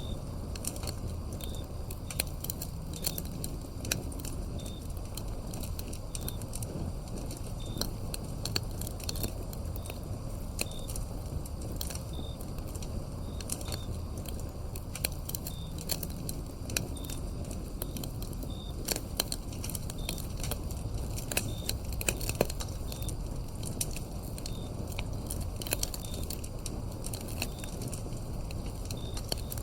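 Wood fire crackling with frequent sharp pops over a low rumble, with autumn crickets chirping in short high notes about once a second.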